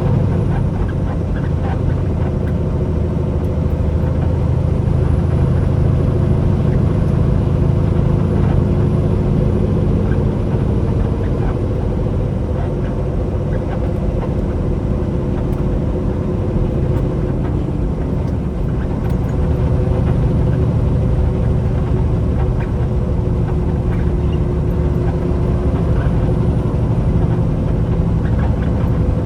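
Semi truck's diesel engine running at a steady low drone, its pitch holding even throughout.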